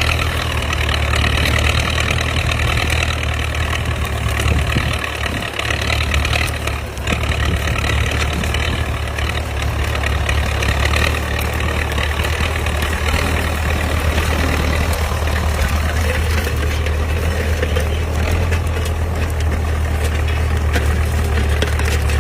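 Tractor engine running steadily while pulling a plough, with a constant low drone.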